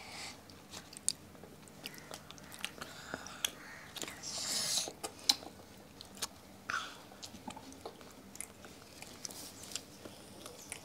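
Small children eating soft white bread with curry by hand: quiet chewing with scattered small mouth and finger clicks. A short breathy hiss about four seconds in.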